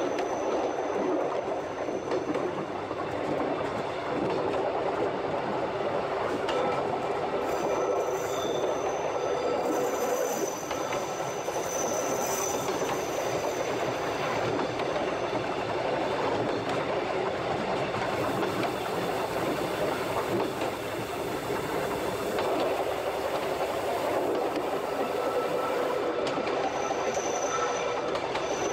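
Narrow-gauge Odontotos rack-railway train running steadily along the line, wheels rumbling on the rails, with a high wheel squeal coming and going, heard twice.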